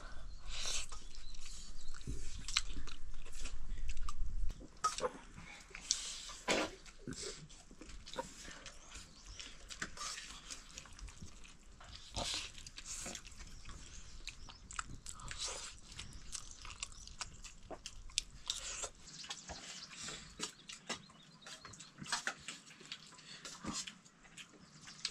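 Close-up eating sounds: chewing with scattered small clicks and crunches, over a low rumble in the first few seconds.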